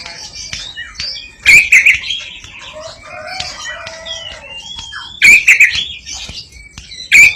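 White-breasted waterhen (koak kikok) calling loudly: three bursts of rapid harsh notes about 1.5, 5 and 7 seconds in, with softer wavering calls between.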